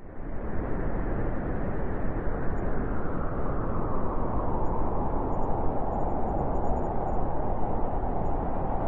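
Blizzard wind blowing steadily in a dense, unbroken rush, with a howl that grows stronger toward the end. It starts abruptly after a brief fade to silence.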